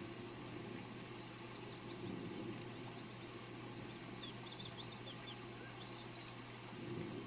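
Steady hiss of falling rain with a low hum underneath, and a bird chirping in a quick run of short high notes about halfway through.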